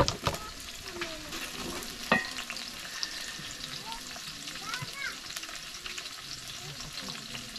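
Food sizzling in a large aluminium pot over a wood fire, a steady frying hiss. A short clatter at the start as the plastic lid is lifted off, and a single knock about two seconds in.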